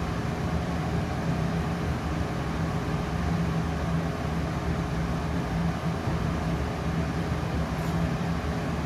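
Trotec Speedy 100 laser cutter and its air system running: a steady hum with a low drone and even fan noise.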